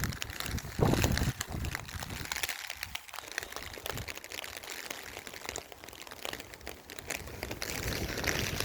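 Heavy rain crackling over a steady hiss, with wind gusts buffeting the microphone; the strongest gust comes about a second in.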